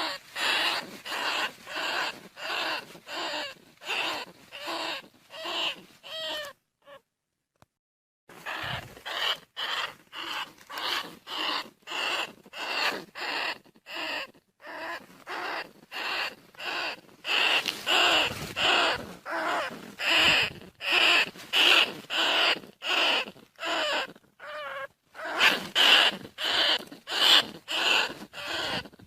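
Bandicoot rat squealing over and over, about two short calls a second, with a pause of about two seconds near a quarter of the way in. It is a recorded rat call of the kind played as a lure to bring rats in.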